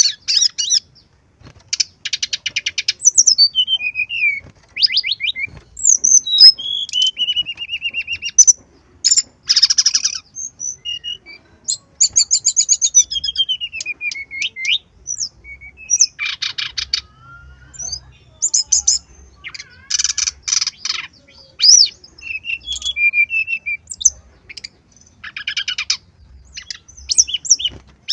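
Brown-chested jungle flycatcher singing a varied, fully-loaded song: high whistled notes and sweeping glides, broken every few seconds by fast rattling trills, in short phrases with brief pauses between.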